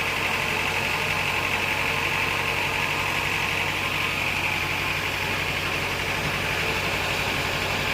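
Sawmill bandsaw machinery running steadily, a constant hum under a high whine.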